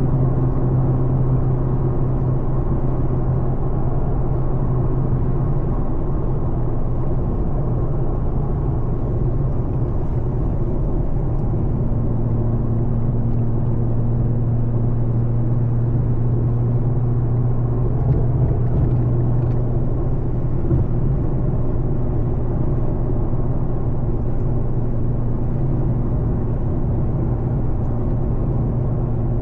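Infiniti Q50 cruising, heard from inside the cabin: a steady low engine and exhaust drone under wind and road noise. The engine note shifts slightly about twelve seconds in.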